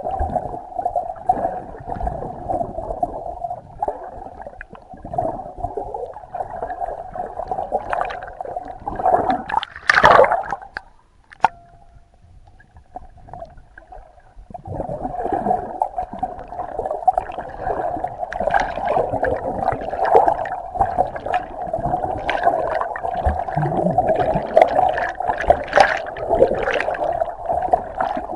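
Muffled water sloshing and gurgling at sea, with a loud surge about ten seconds in and a few seconds of near-calm before it picks up again.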